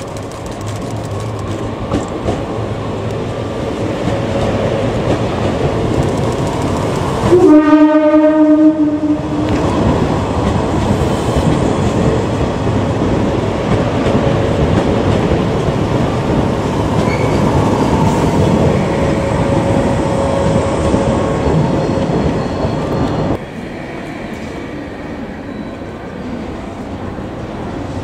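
JNR 381 series limited express electric train running past, sounding its horn once for about two seconds a quarter of the way in; the horn is the loudest sound. About five seconds before the end the train noise gives way abruptly to quieter station noise.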